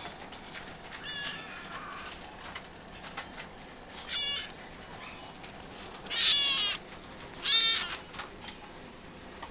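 A kitten meowing: four short, high-pitched meows, the last two the loudest.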